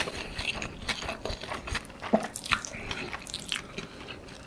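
Close-miked mouth sounds of a person chewing a mouthful of pad thai rice noodles: irregular short clicks and smacks.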